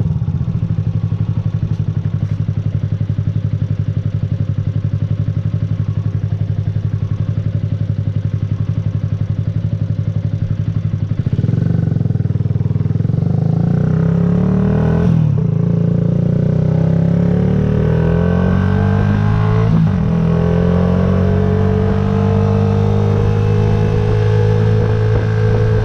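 Yamaha YZF-R125's single-cylinder four-stroke engine running steadily at low revs, then about eleven seconds in it gets louder and the revs climb as the bike accelerates. Two brief drops in pitch come as it shifts up a gear before the revs climb again.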